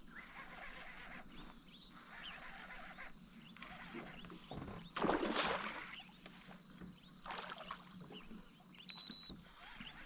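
Steady high-pitched buzzing of insects. There is a brief noisy burst about five seconds in, and a short high beep near the end.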